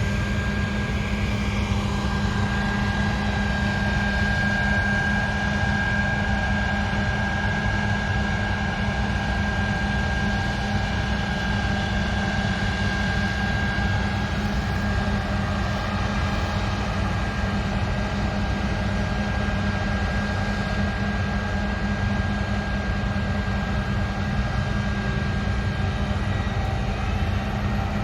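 Combine harvester running steadily at working speed: a deep engine hum with a steady high whine from the threshing and cleaning machinery.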